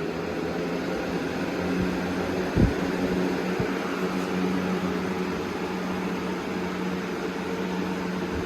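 Box fan running steadily on high speed: a rush of moving air over a low motor hum. A single brief knock comes about two and a half seconds in.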